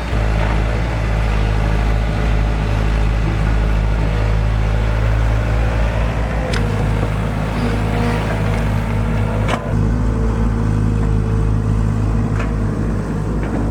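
A large engine running steadily at a constant speed, with sharp knocks about six and a half and nine and a half seconds in.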